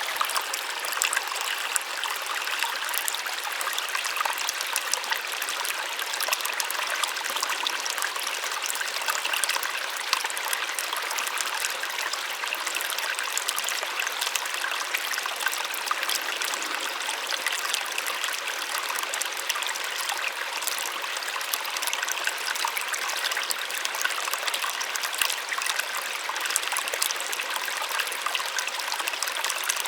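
A small waterfall running steadily: water splashing and trickling with a bright, light rush and no deep rumble.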